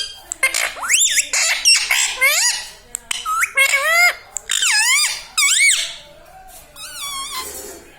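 Pet parrot calling and squawking in a quick series of short, high notes that swoop up and down, with a quieter stretch about six seconds in.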